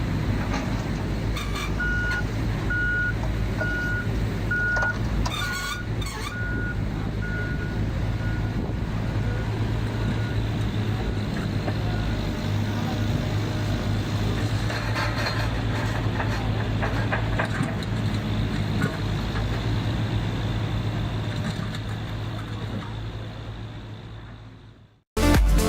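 A LiuGong crawler excavator's diesel engine running steadily, with its travel alarm beeping a little over once a second for several seconds early on, growing fainter. The engine sound fades out near the end, and music cuts in.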